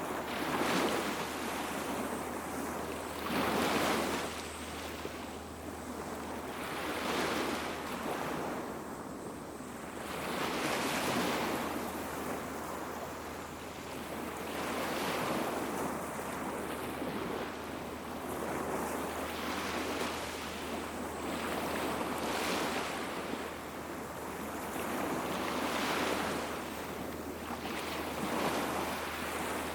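Small waves washing onto a beach, each wash swelling and fading away about every three to four seconds, over a steady low rumble.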